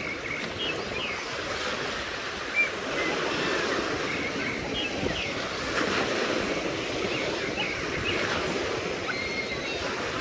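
Sea waves washing on a sandy beach, a steady rushing wash with faint short high chirps in the background.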